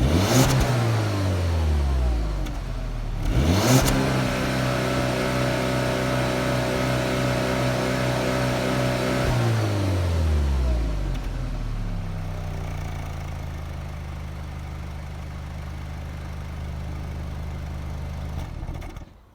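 Car engine revved with a quick blip, then revved up again and held at steady high revs for about five seconds before dropping back to a steady idle. It stops near the end.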